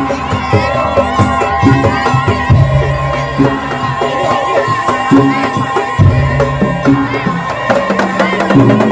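Madurese tong-tong (daul) ensemble playing loudly: wooden slit drums and drums beat a dense, fast rhythm, with a wavering melody line over them.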